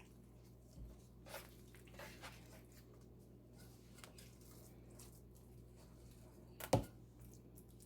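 Quiet kitchen food-prep handling over a low steady hum: a few soft squishy rustles in the first couple of seconds, then a single sharper knock, like a utensil or dish set down, a little before the end.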